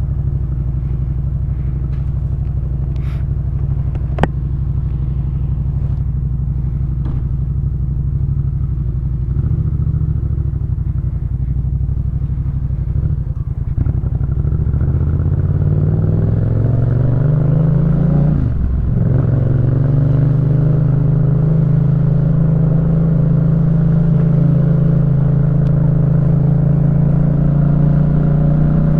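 2018 Yamaha MT-07's parallel-twin engine through a Jeskap K4 full aftermarket exhaust. It runs at a low steady pitch with a sharp click about four seconds in, then revs up as the bike pulls away. The pitch climbs, breaks briefly at a gear change, and holds higher, rising slowly.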